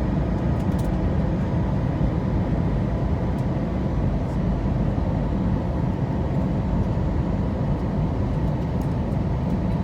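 Steady aircraft noise of engines and airflow heard from inside the plane in flight: an even low rumble with a few faint steady tones above it.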